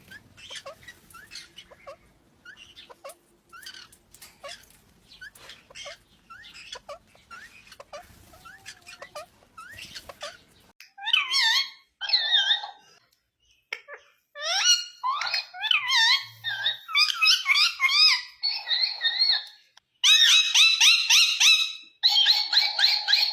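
Indian ringneck parakeet calling: soft chirps and squeaks at first, then from about halfway through loud, rapidly warbling squawks in quick repeated runs.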